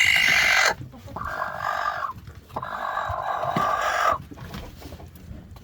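A broody hen squawking as she is lifted off her eggs: a loud harsh call, then two drawn-out calls of about a second and a second and a half.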